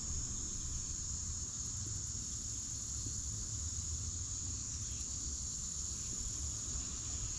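A steady, high-pitched drone of insects singing in summer, unbroken throughout, over a low rumble.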